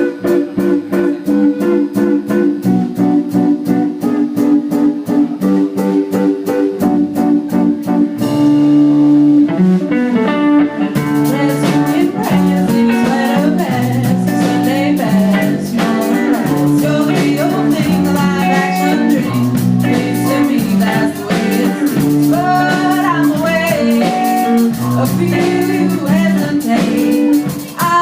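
Live band playing a song: electric guitar and drums play the opening with a steady beat, and a singer comes in about eleven seconds in.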